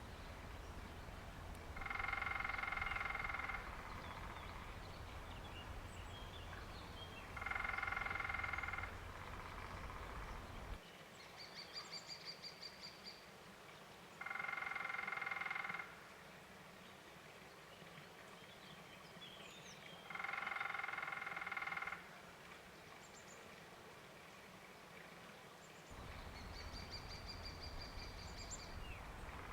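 Woodpecker drumming on wood: four rolls of about a second and a half each, roughly six seconds apart, each ringing with a steady tone. Between them come two fainter, higher-pitched rattles and a few small bird chirps.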